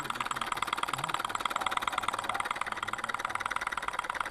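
Small homemade gamma-type Stirling engine running steadily, its glass power piston and bearingless flywheel shaft and linkage giving a rapid, even clicking rhythm.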